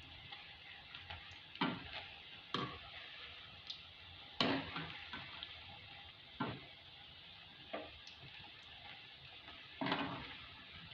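Punugulu, fritters of idli batter, deep-frying in hot oil with a steady faint sizzle. A spoon knocks against the pan about six times as they are stirred, the loudest knock a little under halfway through.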